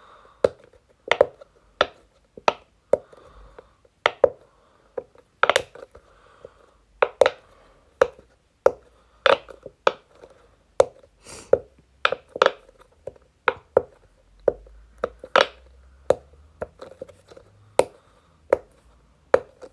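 Silicone bubbles of a regular-size Pop-It ball fidget toy being pressed in and popping back out: a series of sharp pops, about one or two a second at an uneven pace, some coming in quick pairs.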